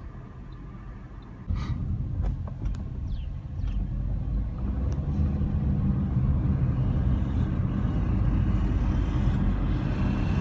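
Car on the move: a steady low rumble of engine and tyre noise. It gets suddenly louder about a second and a half in, then keeps building as the car picks up speed, with a few light clicks along the way.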